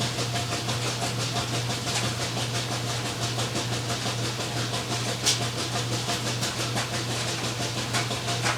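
Laundry machine (washing machine or clothes dryer) running steadily, a constant low hum under an even whooshing noise, with one brief click about five seconds in.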